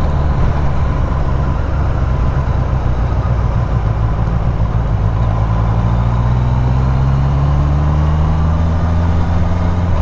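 Motorcycle engine running in slow stop-start traffic, with road noise over it; about halfway through, its note starts rising gradually as the bike picks up speed.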